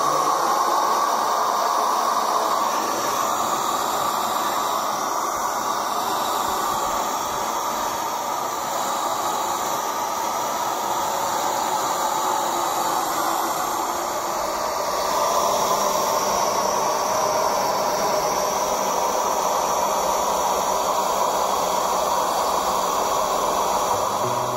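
Mini ducted turbo fan, a rewound hairdryer motor spinning a fan inside PVC pipe, running at high speed with a loud, steady rushing hiss of air. It eases a little in the middle and picks up again about fifteen seconds in.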